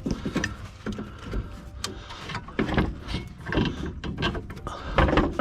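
Irregular knocks and metallic clicks of tools and strut parts being handled while a rear strut is fitted in place.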